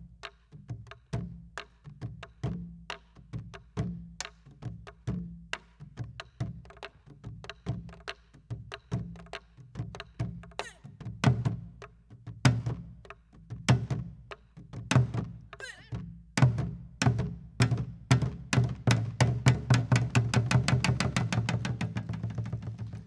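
Korean soribuk barrel drum played in pansori gobeop style: deep strokes on the drumhead mixed with sharp wooden knocks on the drum's body. The strokes come faster and denser through the second half and run into a rapid, louder roll near the end.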